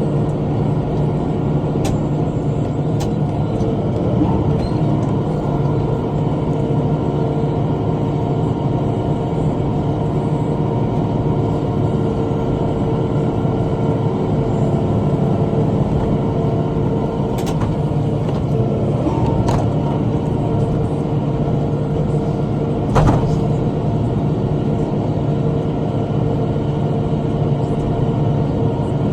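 Tractor engine running steadily under load while pulling a bush hog rotary cutter through brush, with a few sharp knocks, the loudest about three quarters of the way through.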